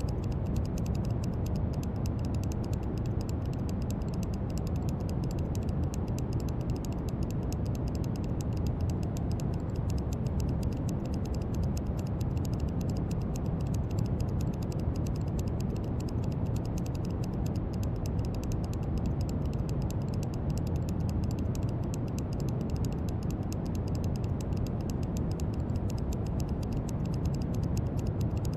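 Steady brown noise: an even, deep rushing hiss, heaviest in the low end and thinning toward the top, unchanging throughout.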